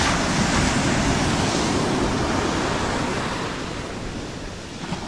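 Sea waves washing up on a beach, a rush of surf that swells early on and fades away about four seconds in.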